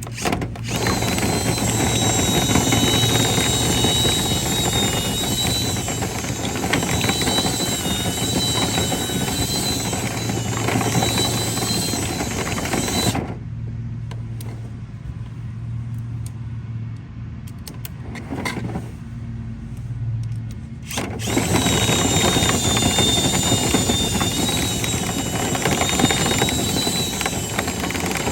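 Dryer vent cleaning equipment running: a motor with a wavering high whine over a low hum. The whine stops for about eight seconds around the middle while the low hum carries on, then starts again.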